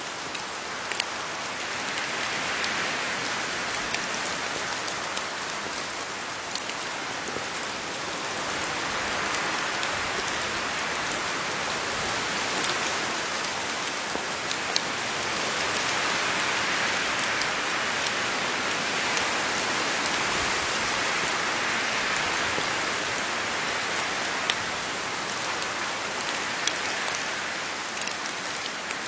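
Steady rain falling on leaves: a dense patter that swells and eases gently, with single louder drops now and then.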